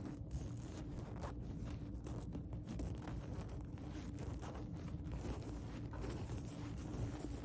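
Plastic bag rustling and crinkling as it is handled, in small irregular crackles, over a faint steady hum.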